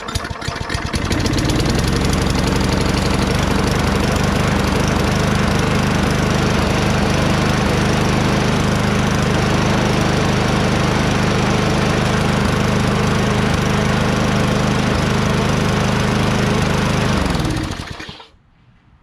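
Toro Recycler mower's 6.5 hp Tecumseh single-cylinder engine catching and coming up to speed, then running steadily at speed. It is shut off about three-quarters of a second before the end and winds down.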